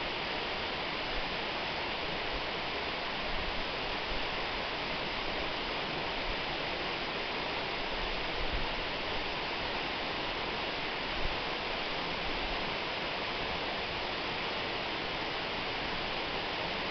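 Waterfall, water falling steadily in an even, unbroken rush.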